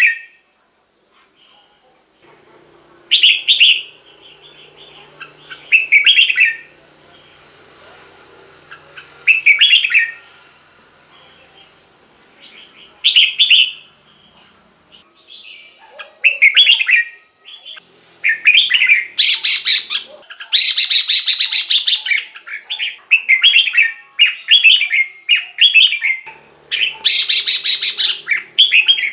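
Red-whiskered bulbul singing short, bright song phrases. They come a few seconds apart at first, then follow one another rapidly in the second half, with two longer, louder bursts.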